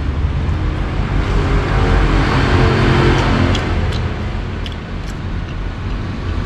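Road traffic, with a vehicle passing close by that swells to its loudest about two to three seconds in and then fades. A few light clicks sound around the middle.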